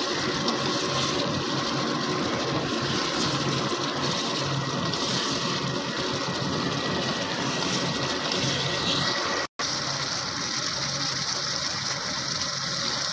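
Chicken in tomato masala sizzling and spattering in oil in a pot while it is stirred with a silicone spatula, at the bhuna stage when the oil is starting to separate from the masala. The sound breaks off for an instant about nine and a half seconds in.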